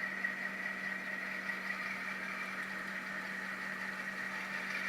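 Tsunami sound decoder in a model diesel locomotive playing a steady diesel engine idle through the model's small speaker.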